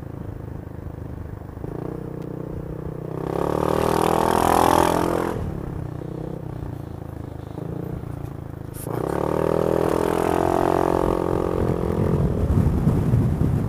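Motorcycle engine running under way, then accelerating twice with its pitch climbing: once about three seconds in and again past the middle.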